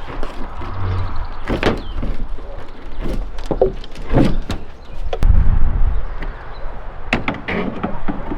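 Clanks, knocks and scrapes of hand work on the metal body and parts of an old pickup truck being dismantled, with a heavy low thud about five seconds in.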